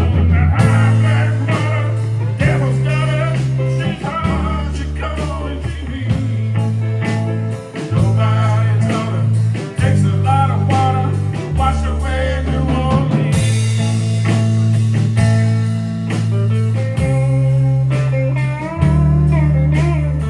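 A band playing a blues-rock instrumental passage: a steady bass line, drums, and a bending lead melody, likely guitar, over the top.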